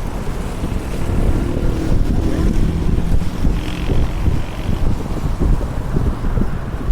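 Heavy wind buffeting the microphone at speed, over the steady rumble of skateboard wheels rolling fast on asphalt during a downhill run.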